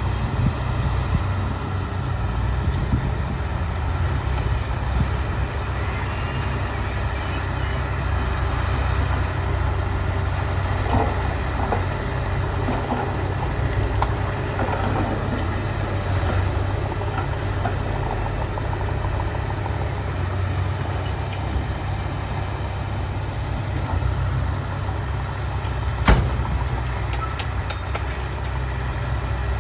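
Heavy diesel earthmoving engine running steadily with a low drone. Near the end comes a single sharp knock.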